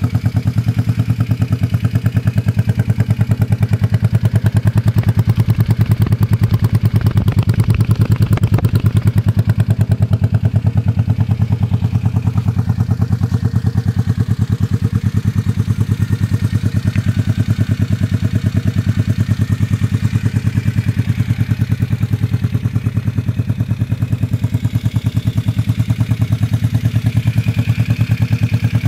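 Yamaha XS400 parallel-twin motorcycle engine idling steadily, with an even beat of exhaust pulses.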